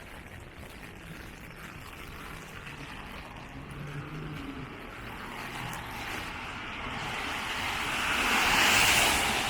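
A vehicle passing on the rain-wet street, its tyre hiss swelling over several seconds to a peak near the end, over the steady patter of rain.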